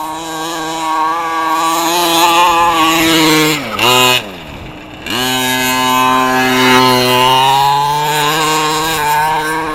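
1/5-scale Redcat MT truck's 32cc two-stroke gas engine running at steady high revs. About three and a half seconds in the revs fall sharply and the engine goes quieter for about a second, then it climbs back up and holds high again.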